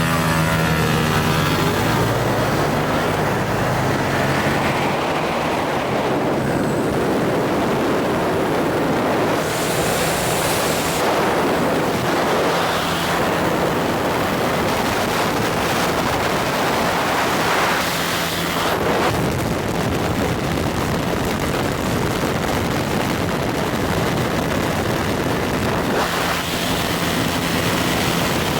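Small off-road engine running under way, rising in pitch at the start and then carrying on steadily, with heavy wind noise rushing over the microphone.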